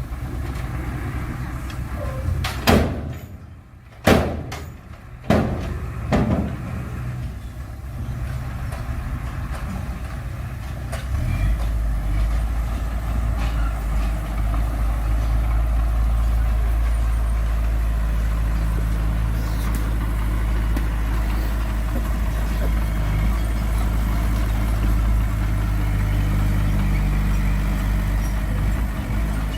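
Heavy diesel earthmoving machinery running steadily, with four sharp knocks a few seconds in. About eleven seconds in the engine grows louder and settles into a steady, heavier drone.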